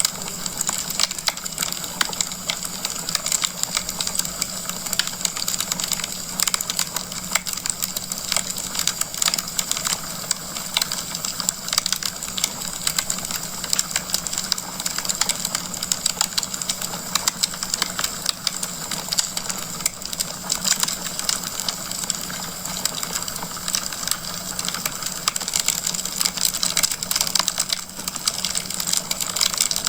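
Wood fire crackling steadily, with dense, irregular pops and snaps over a soft hiss.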